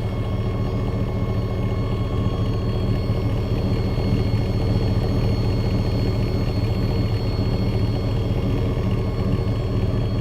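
1999 Chevrolet Silverado's 5.3L LM7 V8 running steadily through a Cherry Bomb straight-through muffler: a low, even exhaust drone that holds one pitch, with no revving.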